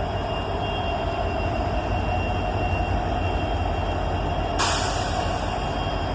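Freight train rolling slowly with a steady low rumble and faint thin high tones. About four and a half seconds in comes a short, sudden hiss of air, and a briefer one near the end.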